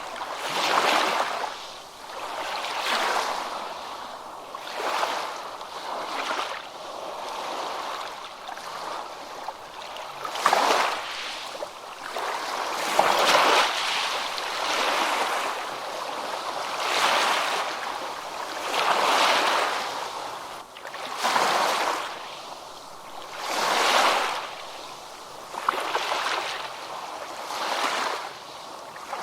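Ocean waves breaking and washing up a beach, the surf swelling and falling away every two to three seconds.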